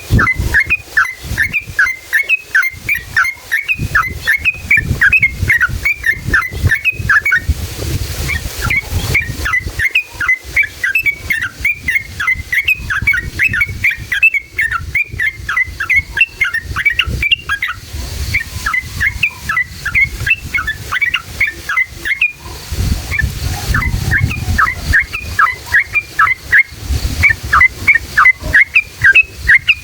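Yellow-vented bulbul (trucukan) singing long runs of quick, bubbling chattering notes, the long rolling 'ropel' song used as a lure, in stretches of several seconds with brief pauses between them.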